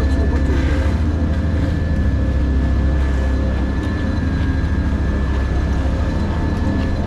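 Diesel engines of heavy asphalt-paving machinery running steadily with a deep rumble and a constant high whine over it.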